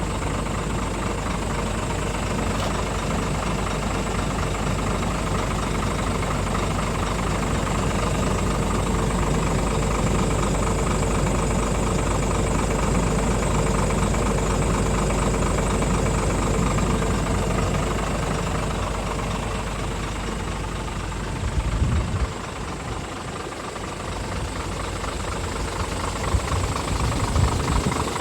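Scania R450 truck's 13-litre inline-six diesel idling steadily. About 21 seconds in, the low engine rumble drops away with a brief thump, and only lighter, uneven low noise is left.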